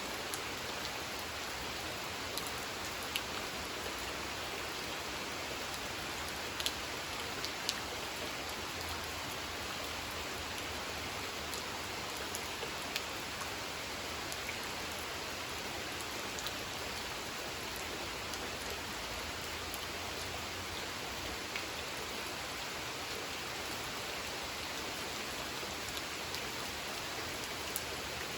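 Steady rain falling on a pond's water, an even hiss with scattered single drops ticking out of it now and then.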